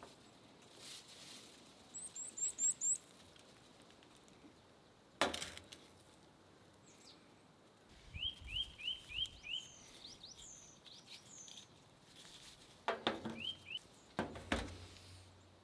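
Songbirds chirping in short, quick series of down-slurred notes, some high and thin, others lower, several times over. A few sharp knocks cut in, the loudest about five seconds in and a cluster near the end.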